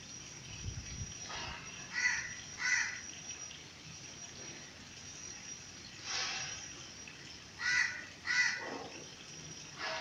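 Short harsh bird calls, several coming in pairs a little under a second apart, over a steady high-pitched insect drone.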